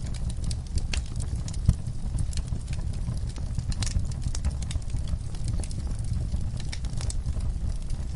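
Wood fire crackling in a fireplace: many irregular sharp pops and snaps from the burning logs over a low steady rumble of the flames.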